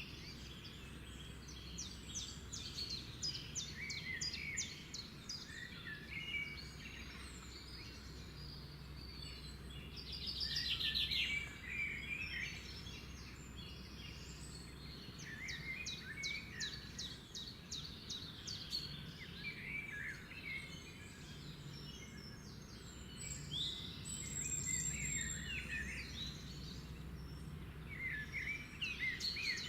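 Several birds calling and singing at once, with quick chirps, short trills and rapid rattling runs, over a low steady rumble. The loudest bursts of song come about a third of the way in and again past the three-quarter mark.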